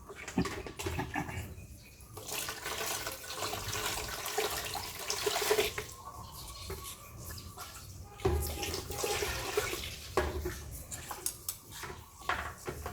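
Water running and splashing, stopping and starting a few times.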